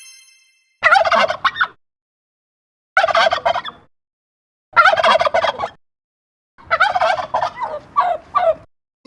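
Turkey gobbling four times, each a short burst of rapid warbling. The last gobble is the longest and breaks into several pulses near the end.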